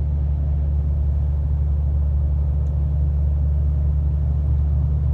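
Ram 2500 pickup's Cummins straight-six diesel and road noise while driving: a steady low rumble that does not change.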